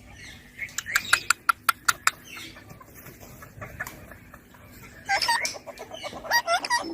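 Baby ring-necked parakeet calling: a quick run of sharp clicking calls about a second in, then a burst of short chattering calls that bend in pitch near the end.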